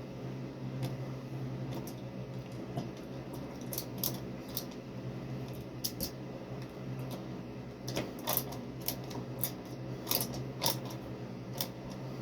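Irregular sharp clicks and light taps, thickest in the second half, over a steady low hum.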